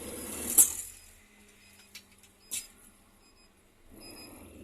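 Inside a bus cab: a loud sharp click about half a second in, then two softer clicks, over a low rumble that dies away and returns near the end, with a short high beep repeating faintly.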